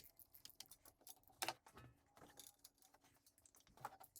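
Faint, scattered metallic clicks and light taps of hand tools and nuts being handled while exhaust manifold nuts are undone, the loudest about a second and a half in.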